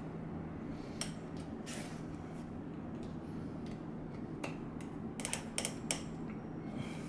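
Scattered light clicks and clinks of small hard objects being handled, with a quick cluster of them about five to six seconds in, over a steady low hum.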